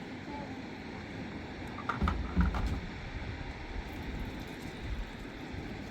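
Steady outdoor background noise, with a short cluster of dull thumps and knocks about two seconds in.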